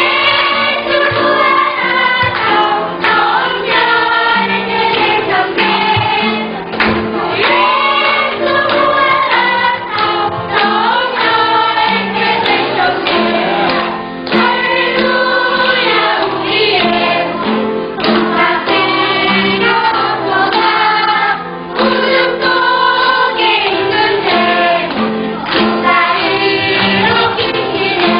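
A church choir singing a Korean Christian praise hymn, with low held notes of an instrumental accompaniment underneath.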